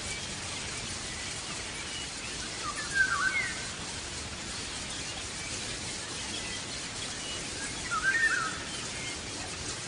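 Bird calling close by: two short bursts of quick, gliding chirps, about 3 seconds in and again about 8 seconds in, over faint scattered twittering and a steady background hiss.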